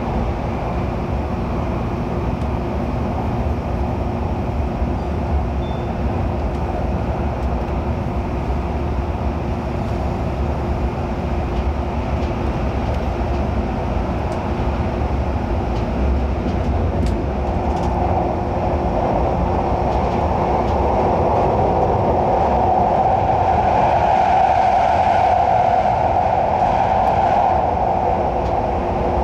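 Running noise of an MTR Airport Express CAF train heard from inside the car: a steady rumble with a constant hum. About two-thirds of the way in, a louder, higher drone swells up and then fades before the end.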